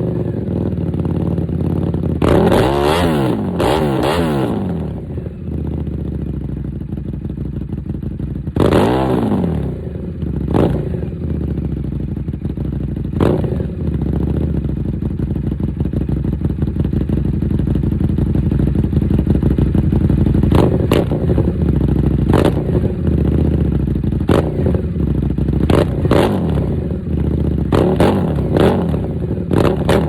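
Buell 1125CR's V-twin running through a loud aftermarket Dean Adams exhaust, idling with throttle blips: a couple of revs about two and nine seconds in, then a rapid string of short, sharp blips in the last ten seconds.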